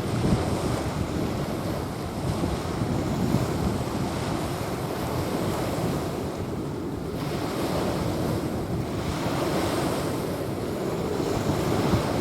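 Small waves washing onto a sandy beach, swelling and easing, with wind buffeting the microphone.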